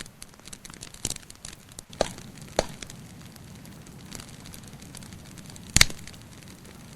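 Wood fire crackling: a dense run of small ticks with a few sharp pops, the loudest near the end, over a soft steady hiss.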